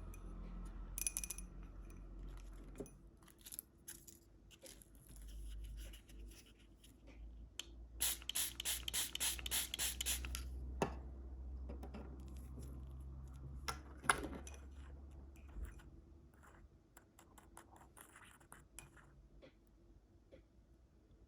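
Candy and snack packaging being handled and opened close to the microphone: scattered scratches, scrapes and clicks, with a dense run of rapid crackling about eight to ten seconds in and a sharp click about fourteen seconds in.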